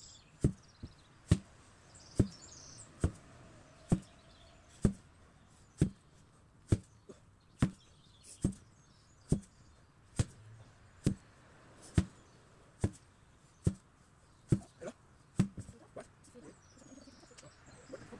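Repeated blows of an 8 kg sledgehammer, one sharp strike slightly under a second apart at a steady rhythm, the strikes growing weaker and less regular near the end.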